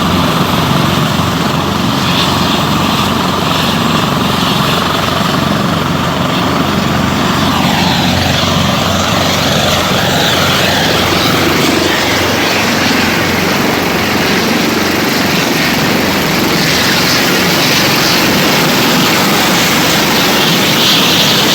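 Helicopter running, its rotor and engine a loud, steady drone.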